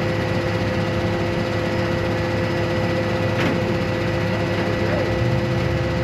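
Steady running hum of a vehicle engine with road noise, with a few constant tones held throughout.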